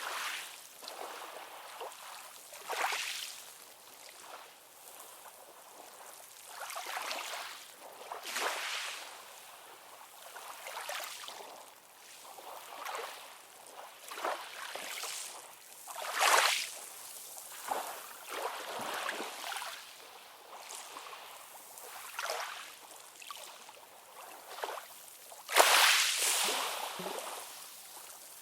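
AI-generated ocean-wave sound: small waves lapping and splashing in short, irregular swishes every second or two, with a louder splash near the end.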